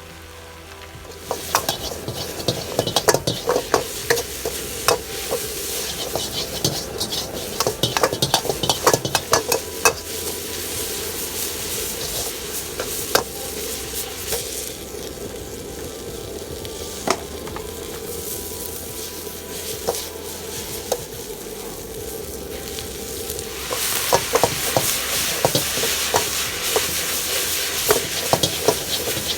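Stir-frying in a wok: hot oil sizzling, with bursts of rapid clattering and scraping of a utensil against the wok about a second and a half in and again near the end, and a steadier sizzle in between.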